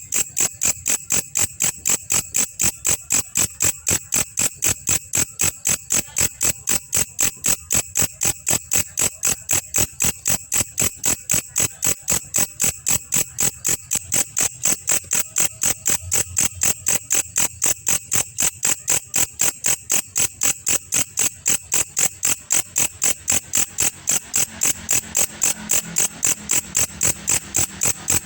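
Belalang kecek insect calling: a steady, even train of short, sharp, high-pitched chirps, about three a second, without a pause.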